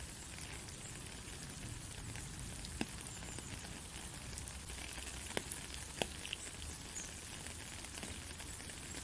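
Rain falling steadily on a country road: an even hiss with a few sharper drop hits, one near three seconds in and a couple around the five-to-six-second mark.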